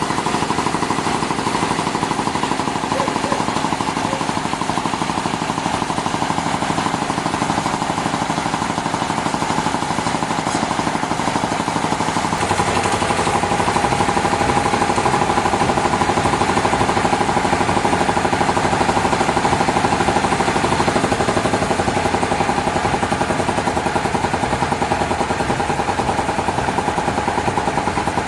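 Sawmill machinery running steadily with a fast, even mechanical pulsing. About halfway through it grows louder and its tone drops slightly.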